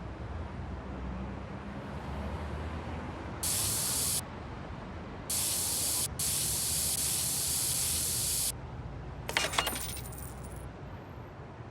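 Three bursts of spraying hiss, starting and stopping sharply, the last and longest lasting about two seconds. They are followed by a brief metallic jingle about nine seconds in.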